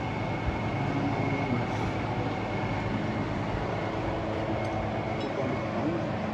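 Steady running noise of a vehicle: an even low rumble with a faint, thin high tone held through it.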